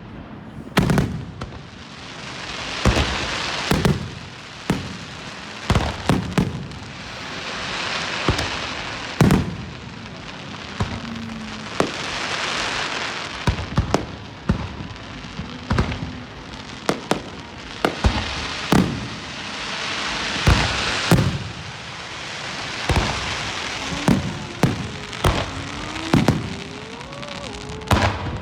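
Aerial fireworks going off in quick succession: sharp booms of shells bursting, several every few seconds, with rising swells of crackling hiss between them.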